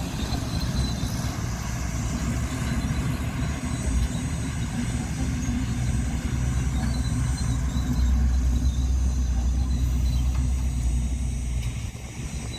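Heavy diesel earthmoving machinery running steadily with a low rumble, which grows louder about two-thirds of the way in and eases off near the end.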